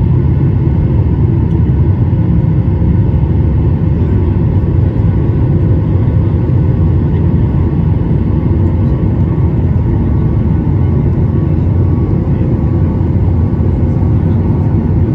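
Steady cabin noise of a Boeing 737 in flight: the low rumble of the engines and rushing air, with a faint steady hum above it.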